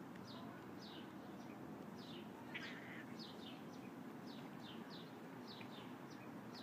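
Birds chirping: repeated short, high chirps that drop in pitch, a few each second, faint over a low background hiss.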